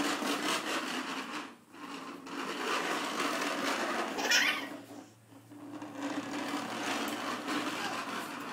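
Small vacuum cleaner motor running with a steady hum and whir, cutting out briefly twice as it is switched off and on again. A brief high-pitched sound rises over it about four seconds in.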